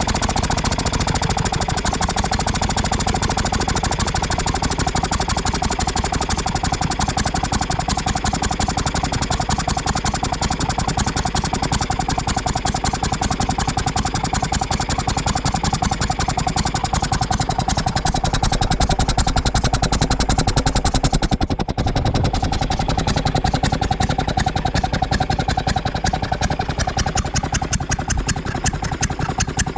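Ruston & Hornsby 2PS vintage portable air compressor with its petrol engine running steadily with a rapid even beat. There is a brief break about two-thirds of the way through, after which the sound is duller.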